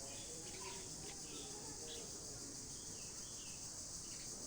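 A steady high-pitched insect drone with a few short bird chirps scattered through it.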